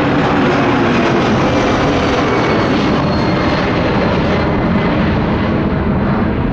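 Boeing 757-300 jet airliner taking off, its twin turbofan engines at takeoff power giving a loud, steady rushing noise.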